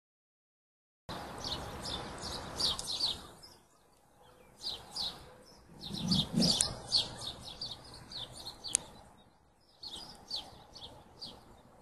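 After about a second of silence, birds chirp in quick clusters of short, high, down-sweeping calls over faint outdoor background noise. A single sharp click stands out a little past the middle.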